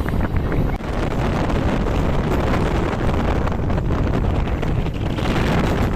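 Wind buffeting the microphone over the steady rumble of a MEMU electric train running, heard from on board.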